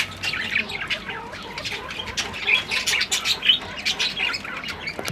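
Birds squawking and chirping, many short calls in quick succession.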